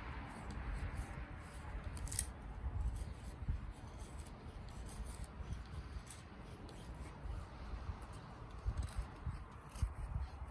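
Wind rumbling on the microphone, with scattered sharp clicks and snaps over it, the strongest about two seconds in.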